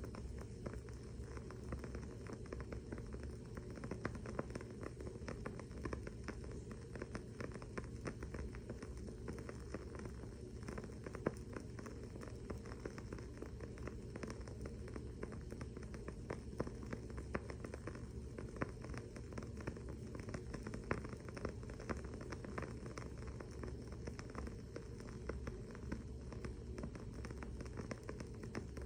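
Wooden-wick candle crackling: a steady run of small, irregular pops and ticks over a low, steady hum.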